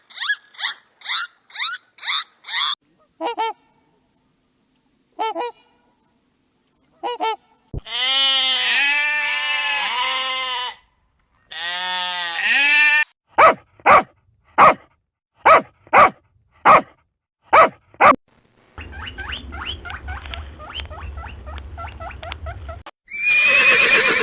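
A run of different animal calls, one after another. First come rapid high chirps, about three a second, then a few short calls spaced apart, then two long calls that rise and fall in pitch. After those come about eight sharp clicks, then a rough, pulsing buzz over a low hum, and a loud noisy call starts near the end.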